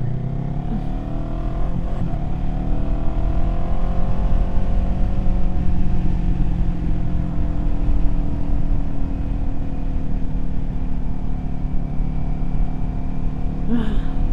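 Kawasaki Z400 parallel-twin motorcycle engine under way: it accelerates, its pitch rising over the first few seconds, then settles into a steady cruise.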